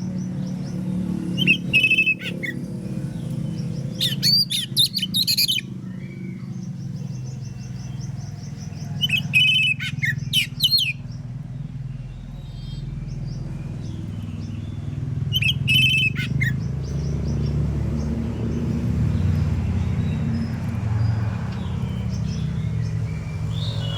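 Oriental magpie-robin singing in four short bursts of quick chirps and whistled notes, a few seconds apart, over a steady low hum.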